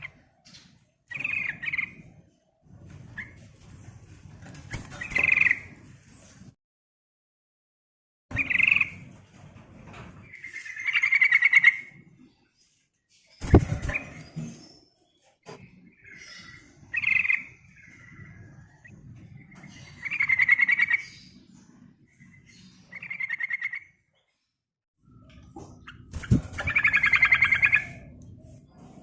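Yellow-vented bulbul (trucukan) singing: short bubbling phrases about a second long, repeated every couple of seconds over a low background rumble. A sharp knock comes about halfway.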